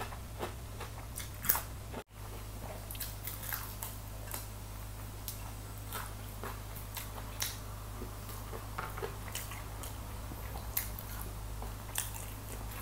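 Close-up eating sounds: chewing and biting crispy baked chicken wings, with scattered short sharp mouth clicks and smacks over a faint low hum.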